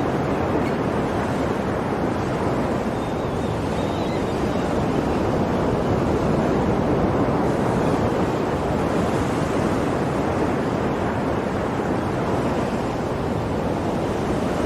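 Ocean waves breaking and washing onto the shore: a continuous rushing surf that swells and eases slowly.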